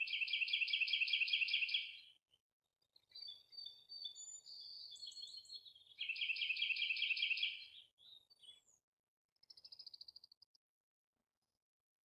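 Songbird singing: two loud, rapid trills of about two seconds each, one at the start and one about six seconds in, with varied shorter chirps between them and a fainter, higher trill near the end.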